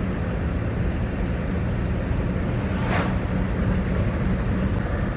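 Steady road and wind noise inside a car driving at speed: a low rumble under a continuous rush, with a brief sharp tick about three seconds in.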